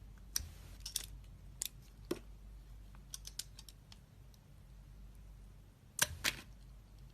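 Blade cutting into a dry bar of soap, giving short crisp cracks and ticks: several single ones early, a quick run of small ticks around three seconds, and two loudest ones about six seconds in.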